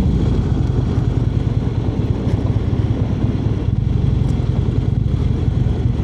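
Harley-Davidson V-twin engine running steadily while riding at cruising speed, with rushing wind noise.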